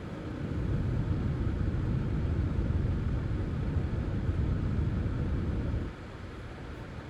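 A vehicle engine's low rumble builds about half a second in, holds steady, and drops off suddenly near the end.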